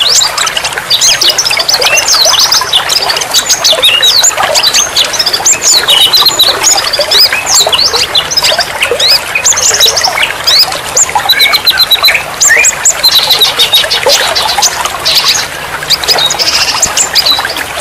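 A dense chorus of many songbirds chirping, whistling and trilling all at once, with rapid overlapping calls, over a steady hiss of running water.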